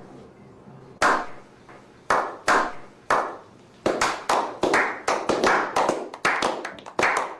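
Hand claps, one sharp clap about a second apart at first, then quicker and uneven from about four seconds in, each with a short ringing tail.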